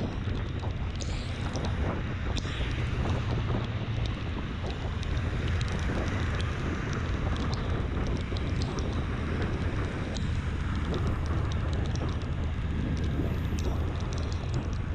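Honda CB650R's inline-four engine running steadily on the move, under heavy wind noise on the helmet microphone.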